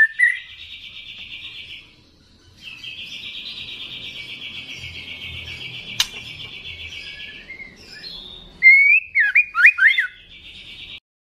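Juvenile white-rumped shama singing: long buzzy rattling trills, one lasting about five seconds, with loud sweeping whistled notes at the start and again near the end. A single sharp click about six seconds in.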